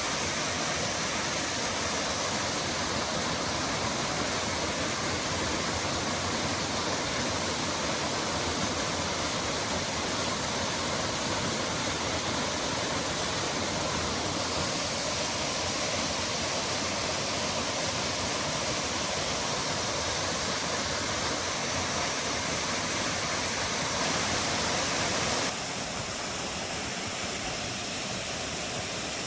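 Steady rushing of a waterfall. Near the end it abruptly turns a little quieter and less hissy.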